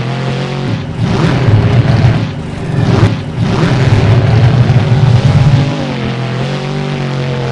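Monster truck engine revving hard and easing off over and over, its pitch rising and falling repeatedly.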